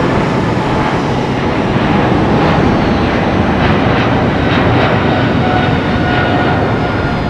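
Twin jet engines of a British Airways Boeing 777-300 at go-around power: a loud, steady jet roar with a faint high whine as the airliner climbs away from an aborted landing.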